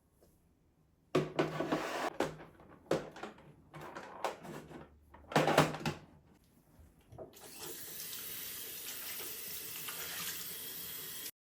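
A run of irregular knocks and clatter, then a water tap running steadily into a sink for about four seconds, cut off suddenly near the end.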